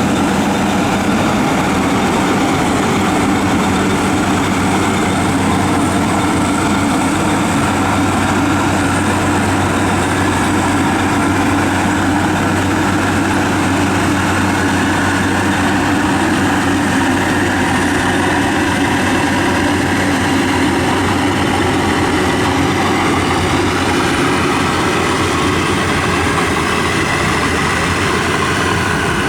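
WD 102 rice combine harvester running steadily, its diesel engine and threshing machinery making a loud, unbroken mechanical drone.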